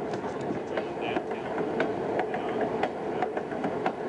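Steady ride noise of a passenger coach heard from aboard a moving train: a rumble of wheels on rails with many irregular clicks and clacks.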